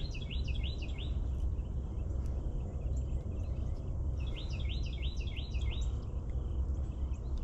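A songbird singing two quick series of repeated chirping notes, about five a second: one right at the start and another about four seconds in. A steady low rumble runs underneath.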